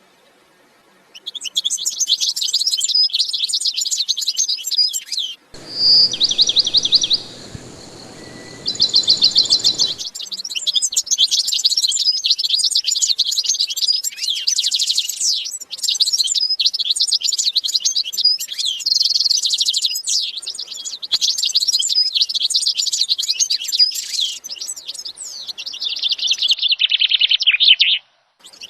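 Small cage birds chirping and twittering densely in quick, high notes and trills. After a near-silent first second the chirping runs on, with a stretch from about six to ten seconds in carrying a steady hiss behind the trills, and a run of falling notes near the end.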